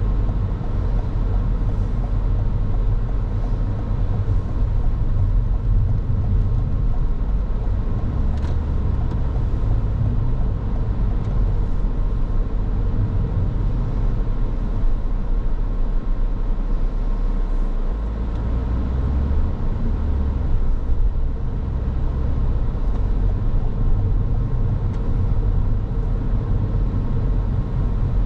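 Car driving along a road: a steady low rumble of engine and tyre noise, with a slight change in the low rumble about two-thirds of the way through.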